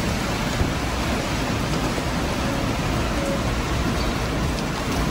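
Steady rain from a tropical storm pouring down on a street, with a low rumble underneath.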